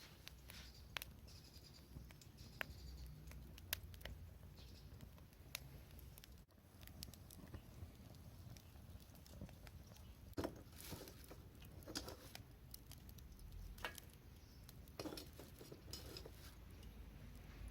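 Freshly lit hardwood fire crackling faintly in a metal shichirin, with scattered, irregular sharp pops over a low steady background.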